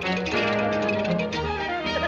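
Cartoon orchestral score: brass and strings playing a quick run of notes.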